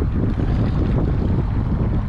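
Strong wind buffeting the microphone: a loud, steady low rumble with no break.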